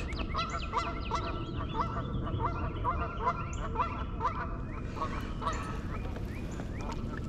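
A bird calling over and over in short pitched calls, about three a second, thinning out after about five seconds, with smaller birds chirping higher up.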